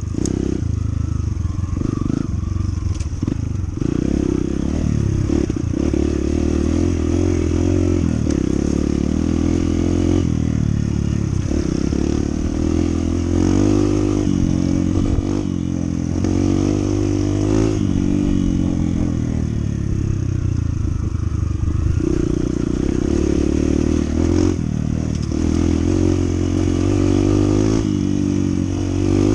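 Honda CT125's single-cylinder four-stroke engine running under way, its revs rising and falling again and again as the rider speeds up, shifts and eases off.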